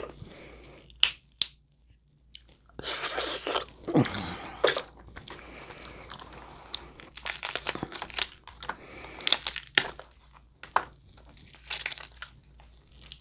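Crab leg shells cracking and crunching as they are broken open, mixed with close-up chewing, in irregular sharp snaps and crackles.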